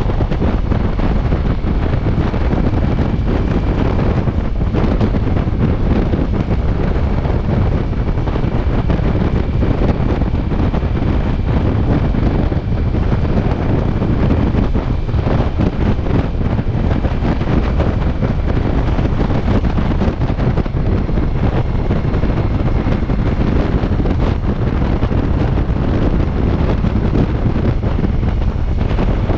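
Steady, loud wind rush on the microphone of a Ducati Multistrada V4 S ridden at speed, with the motorcycle's running mixed in beneath.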